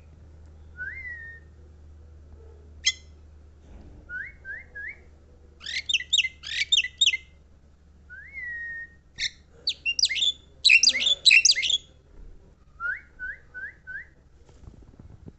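Javan myna singing: rising whistled notes, some in quick runs of three or four, alternating with two bouts of rapid, harsh chattering notes. The second bout, in the second half, is the loudest.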